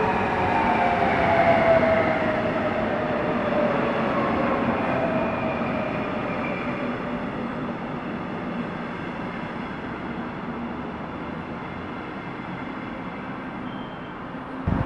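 A double-deck regional train hauled by a DB class 182 electric locomotive rolling past: the locomotive's whine falls steadily in pitch over the first six seconds, over the continuous rumble of the coaches' wheels, and the sound fades as the train moves away.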